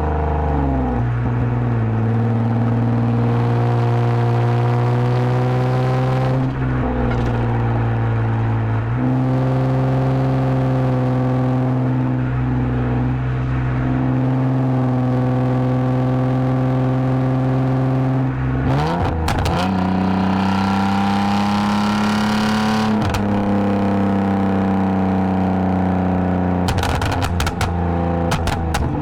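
2010 Lexus IS250 AWD's 2.5-litre V6 through an aftermarket full exhaust with valved mufflers, cruising at a steady drone. The pitch steps down now and then, rises sharply about two-thirds of the way in as the engine revs up, then eases off. A few clicks come near the end.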